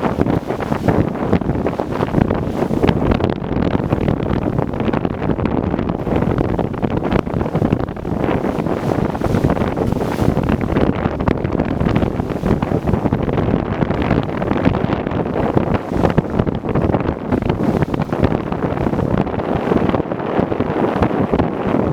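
Strong, gusting wind buffeting the microphone, a constant low rumble and flutter, with waves washing on the lake water.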